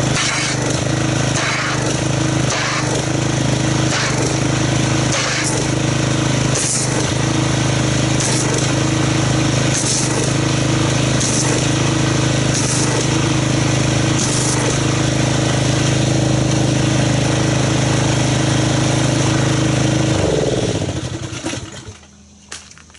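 Pressure washer running steadily while its spray mixes car soap into a wash bucket to build foam. It winds down in pitch and stops about 21 seconds in.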